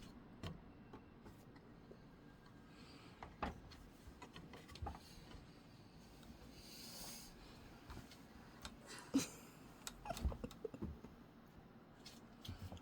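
Faint room sounds: a few scattered light taps and thumps, with a soft breathy hiss around the middle.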